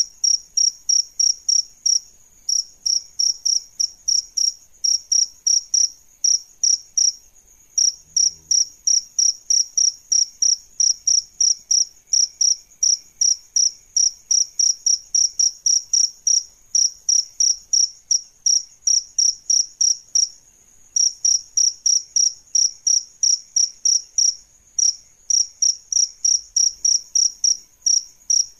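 A cricket chirping loudly in a fast, even rhythm of about four short, high chirps a second, broken by a few brief pauses.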